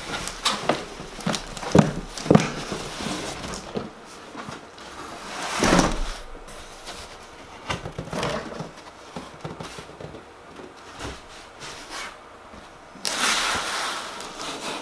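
Cardboard boxes and packing being handled and opened: a run of knocks and taps at first, a louder scrape about six seconds in, scattered small clicks, and a rustling, scraping burst near the end.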